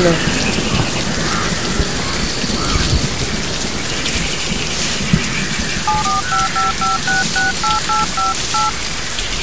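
Steady heavy rain, and about six seconds in a keypad mobile phone beeping out a number: about a dozen quick two-tone dialling tones, roughly four a second.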